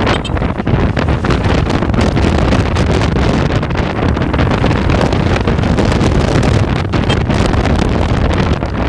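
Loud, steady wind buffeting the microphone, a dense rumbling noise with no clear engine note.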